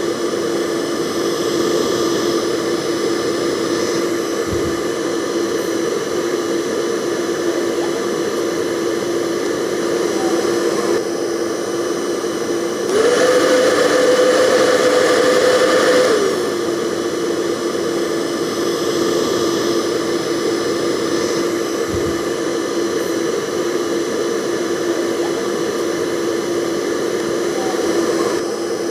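Handheld hair dryer running steadily: a rush of blown air over a constant motor whine. Around the middle the whine steps up in pitch and gets louder for about three seconds, then drops back to its lower, steadier note.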